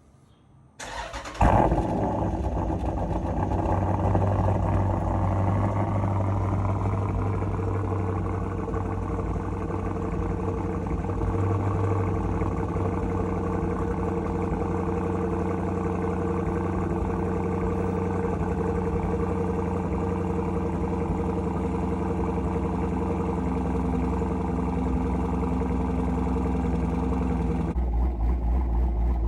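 Jeep SRT Grand Cherokee's cammed HEMI V8 with a Borla ATAK exhaust cold-starting: the starter cranks briefly, the engine catches with a loud flare, and it settles into a steady high cold idle. Near the end the sound abruptly turns deeper and choppier, the lope of the aftermarket camshaft at idle.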